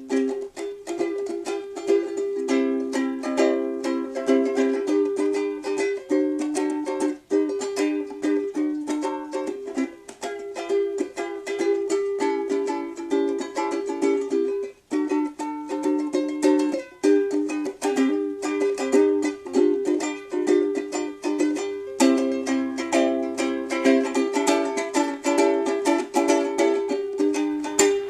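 Instrumental passage on a plucked string instrument: a quick, continuous run of picked notes with no singing, broken by a couple of brief gaps.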